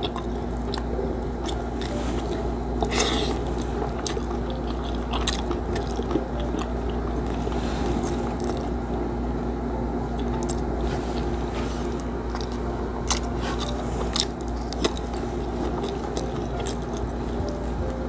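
Close-miked chewing and biting as a mouthful of rice and fried milkfish is eaten by hand, with sharp crunches and wet mouth clicks scattered throughout.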